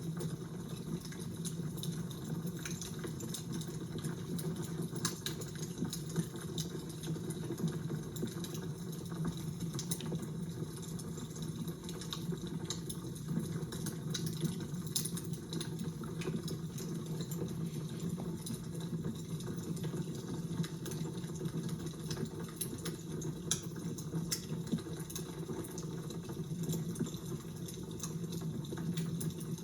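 Fire crackling: a steady low rush of flame with frequent small, irregular pops and snaps.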